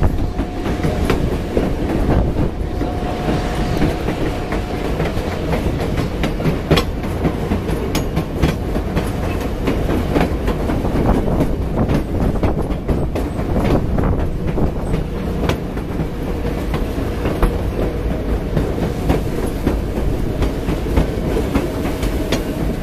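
Passenger train rolling along at steady speed: a continuous rumble with the wheels clicking over the rail joints. A faint thin squeal from the wheels comes and goes.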